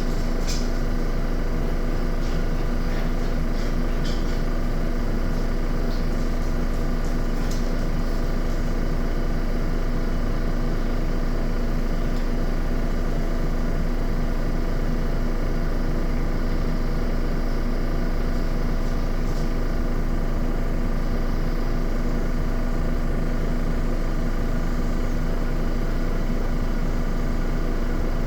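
Miele washing machine on its spin cycle, the drum spinning at a steady speed with a constant motor hum and an even tone that holds without rising or falling.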